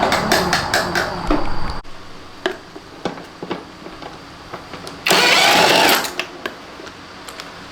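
Hand tools and small metal parts clicking and clinking during scooter disassembly, with a louder clattering noise that stops suddenly near the start. A loud hiss lasts about a second just past the middle.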